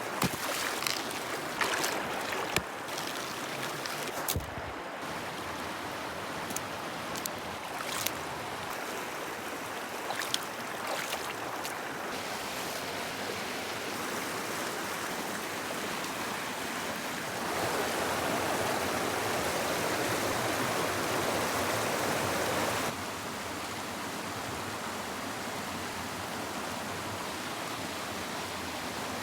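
Running water flowing steadily, like a small stream, with scattered sharp clicks over the first twelve seconds or so. The rushing grows louder for about five seconds past the middle, starting and stopping abruptly.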